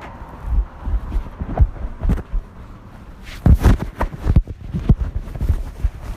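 Irregular low thumps and knocks, with a cluster of sharper knocks about three and a half to four and a half seconds in.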